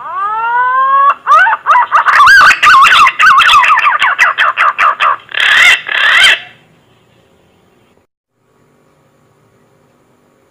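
Green pigeon (punai) call played as a hunting lure: a rising whistle, then a run of quick warbling, wavering whistles broken by clicks that stops suddenly about six and a half seconds in.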